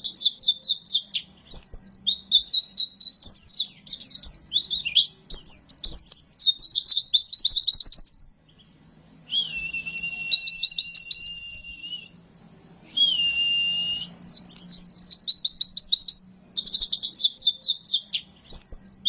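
White-eye (pleci) singing in long runs of rapid, high chattering song phrases, broken by short pauses. About halfway through come two long, flat, level whistles. A faint steady low hum runs underneath.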